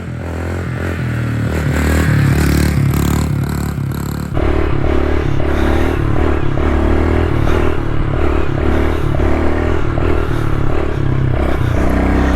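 Small single-cylinder pit bike engine running under throttle while being ridden, its pitch rising and falling in steps as it is revved. The sound changes abruptly about four seconds in.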